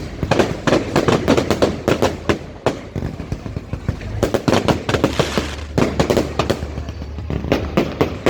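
Fireworks going off: a rapid string of bangs and crackles, several a second.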